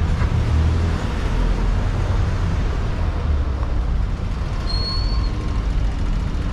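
Busy city street traffic: the steady low rumble of buses and cars running close by, with a short high squeal about five seconds in.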